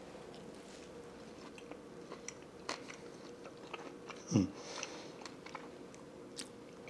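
A person chewing a bite of steak, with faint wet mouth clicks. About four seconds in comes one short hum that falls in pitch.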